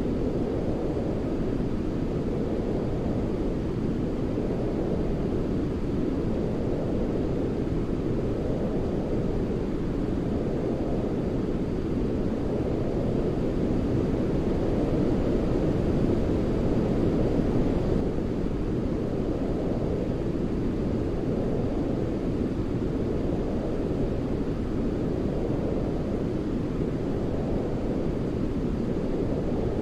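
Continuous deep white noise of the brown-noise kind, heavy in the low end with little hiss on top, swelling gently every few seconds.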